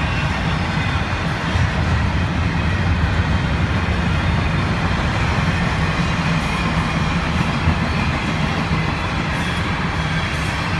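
Intermodal freight train rolling past, a steady loud rumble with a low hum underneath.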